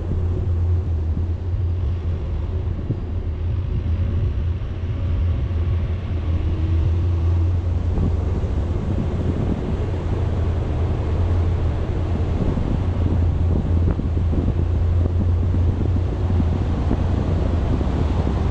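A vehicle driving along a road, its steady low rumble mixed with wind buffeting the microphone.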